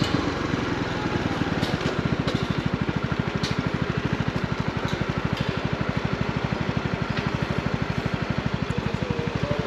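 Honda CB125R's single-cylinder four-stroke engine idling with an even, rapid putter of about a dozen beats a second, after the revs settle in the first second.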